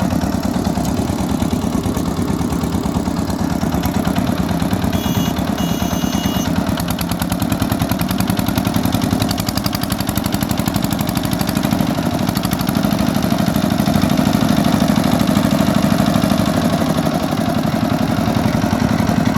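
Micro tractor's engine running steadily while it pulls its trailer, its rapid even firing beat growing a little louder about halfway through.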